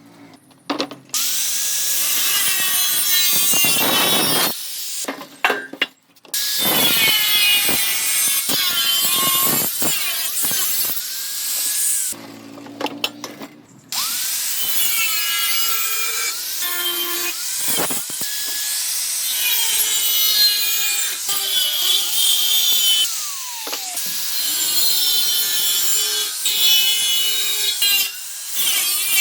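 A handheld electric power tool cutting metal in several long bursts, its motor whining up at the start of each cut, with short pauses between cuts.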